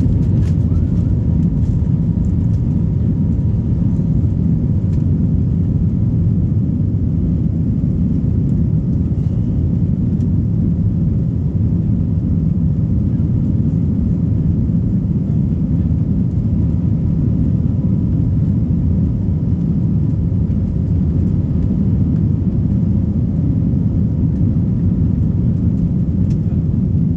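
Steady low rumble of an Airbus A321neo's jet engines, holding an even level throughout, with a faint steady high tone above it.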